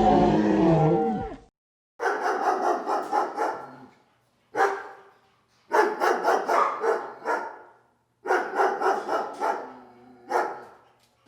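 A dog barking in quick runs of yaps, several bursts separated by short pauses, after a wavering, falling cry at the start.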